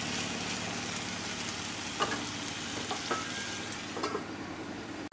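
Taro leaves cooking with a fried hilsha fish head, sizzling steadily in a pan as a wooden spatula stirs, with a few sharp clicks. About four seconds in, a glass lid goes on and the sizzle turns quieter.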